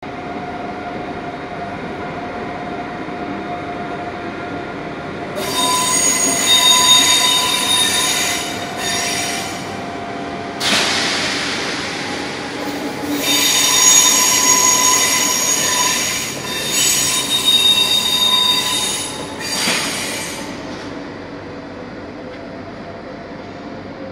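Double-deck regional electric train pulling out and rolling away, its wheels squealing in high ringing tones in two long stretches, broken by a burst of hiss about halfway through. The sound fades as the train recedes.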